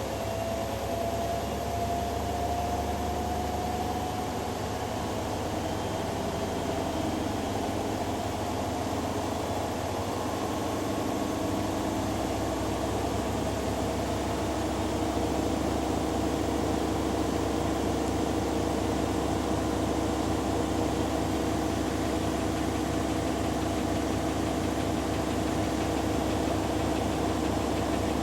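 Two washing machines, a Hoover Dynamic Next DXA610IW3 and a Beko Pro AquaTech WX94044EO, running their spin cycles side by side, with the motors whining as the drums speed up. The whine rises slowly in pitch. About twelve seconds in a low hum comes in strongly, and the sound grows a little louder a few seconds later.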